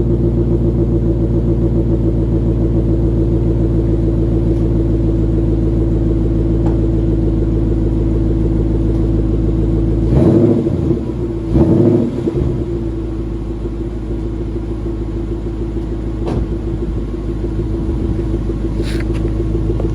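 Coyote 5.0 V8 of a 2012 Mustang GT idling after a cold start through a Ford Performance X-pipe and GT500 axle-back mufflers. About ten seconds in it is revved twice in quick succession, each blip rising and falling, then it settles back to idle.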